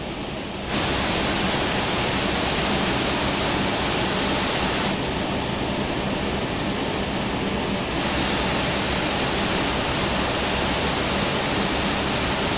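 Steady rushing noise of an Airbus A380 cockpit while taxiing, over a low hum. The brighter hiss cuts in abruptly about a second in, drops away around five seconds, then returns about three seconds later.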